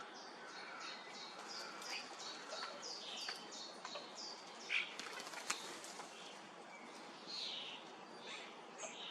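Songbirds at a mealworm feeder: a run of short high chirps repeated about three times a second, then two sharp knocks and flutters about halfway through, and a few fuller calls near the end.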